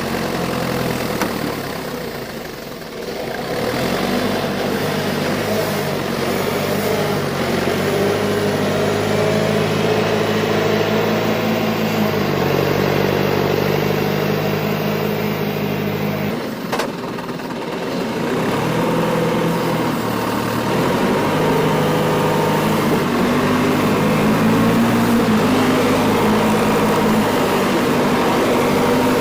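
Engine running for the whole stretch, its speed shifting up and down several times. There is a short lull about 3 s in, and a sharp click with a brief drop about 17 s in.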